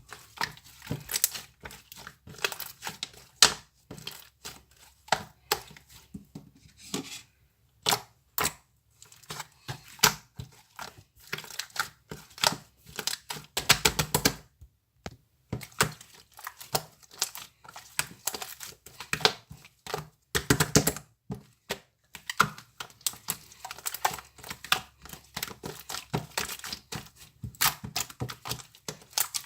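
Close-up crinkling, crackling and tearing of some crinkly material being handled. There are dense, irregular sharp clicks throughout, with a couple of louder, longer crackles partway through.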